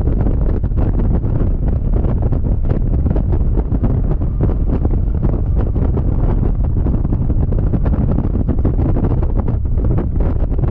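Heavy wind buffeting on the camera microphone of a Yamaha XMAX scooter riding at speed. It is a steady, loud rumble that drowns out the engine.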